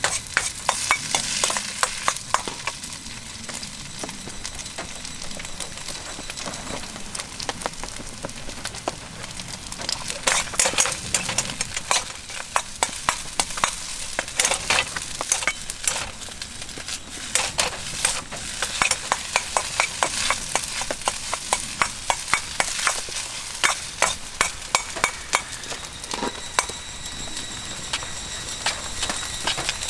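Fried rice sizzling in a Chinese wok over a campfire, with a cooking utensil clattering and scraping against the pan in quick runs of strokes as the rice is stir-fried.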